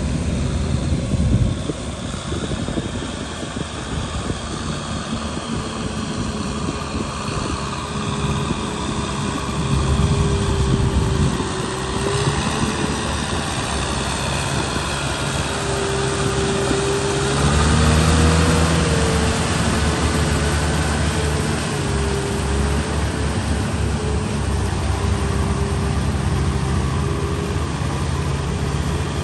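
Tractor engine running steadily under load, with a whine that wavers slightly in pitch; the engine swells louder twice, briefly.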